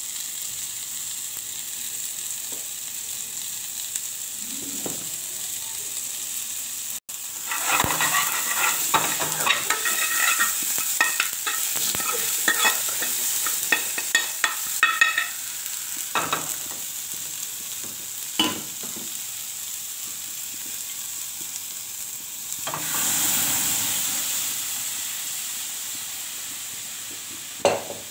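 Chopped onions, tomatoes and capsicum sizzling steadily in a steel pan over a gas flame. Through the middle, a steel ladle scrapes and clinks against the pan as they are stirred. A few seconds before the end comes a louder rush of sizzling.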